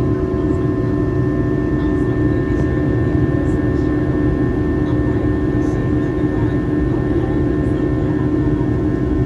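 Boeing 737-800 cabin noise heard from inside: a steady drone of its CFM56 jet engines and the rush of air past the fuselage, a low rumble with a few steady tones running through it.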